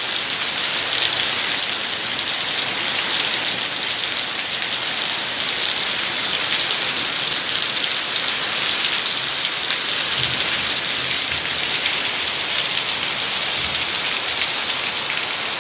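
Heavy rain falling steadily: a loud, even hiss of drops on the surrounding surfaces, with no break or change.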